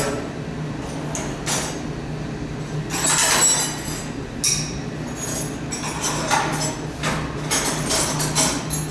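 Irregular metallic clinks and clanks of hand tools being rummaged through and handled, with a steady low hum underneath.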